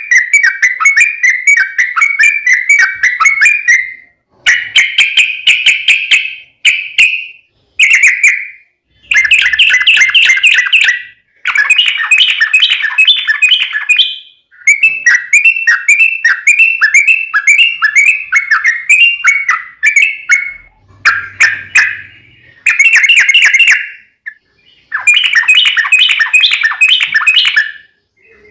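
Yellow-vented bulbul (trucukan) singing its long, rapid song. Quick chattering notes run together in bubbly phrases of a few seconds each, broken by brief pauses, loud and close to the microphone.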